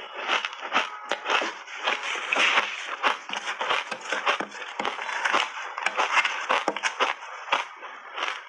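Person chewing big mouthfuls of crunchy shaved ice, a dense irregular run of sharp crunches.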